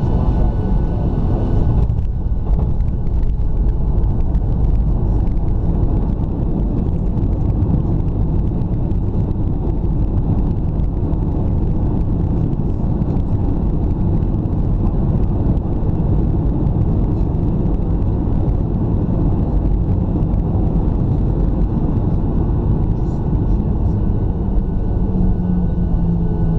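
Loud, steady low rumble inside the cabin of a Boeing 737-700 airliner during landing. A steady low hum comes in near the end.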